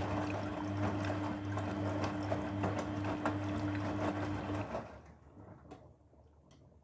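Grundig washing machine drum turning during a wash, water and laundry sloshing over a steady motor hum. The motor stops about two-thirds of the way through, leaving only water settling and a few faint clicks.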